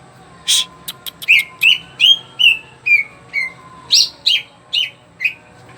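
A cucak ijo (green leafbird) singing in full voice: a quick string of short chirped and whistled notes, two or three a second, mixed with harsh, scratchy notes.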